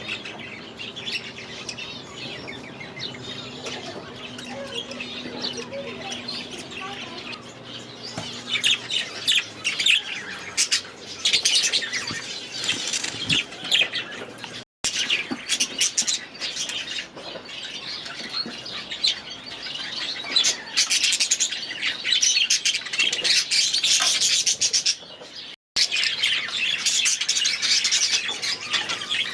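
A flock of budgerigars chattering and chirping, getting louder and busier after about nine seconds. The sound cuts out twice, very briefly.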